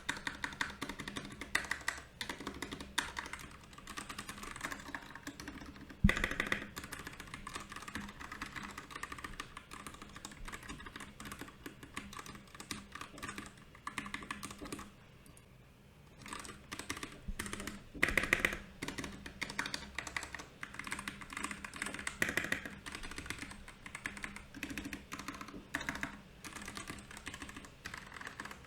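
Typing on a Royal Kludge RK68 mechanical keyboard fitted with brown and milky yellow switches: a fast, uneven run of key clicks. It pauses briefly a little past the middle, and a couple of strokes land harder than the rest.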